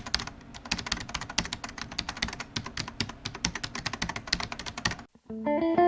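Rapid, irregular keyboard typing clicks that stop about five seconds in. Plucked guitar notes of background music begin just after.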